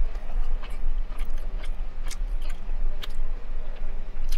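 Close-miked chewing and wet mouth clicks of someone eating pieces of teriyaki chicken, over a steady low hum.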